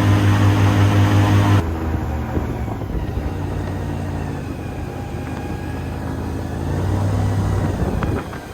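Airboat engine and propeller running loud and steady, then dropping suddenly about one and a half seconds in to a quieter, lower engine sound. The engine swells louder again briefly near the end.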